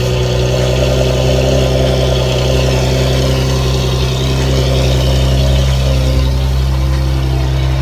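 Nissan 370Z's 3.7-litre V6 idling steadily and loudly, just after a cold start.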